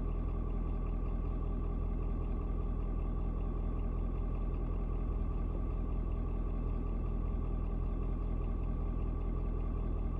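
Ford 6.7 L turbo diesel V8 in a Super Duty pickup idling steadily while still cold, about nine minutes after a cold start, before the temperature gauge has begun to move.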